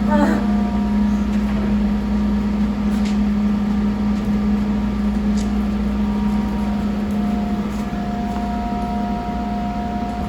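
A steady mechanical hum with faint steady tones above it, and a few faint light clicks.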